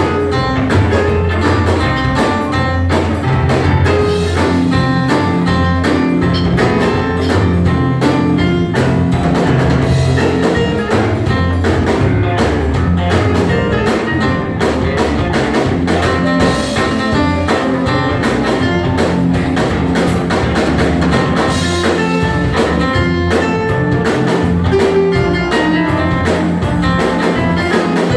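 Live rock band playing an instrumental passage: guitar leading over bass and drum kit.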